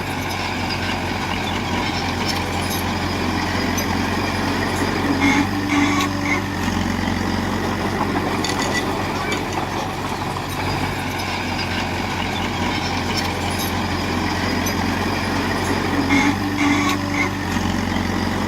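Heavy diesel construction machinery running steadily under work. A short whining tone comes through about five seconds in and again near the end.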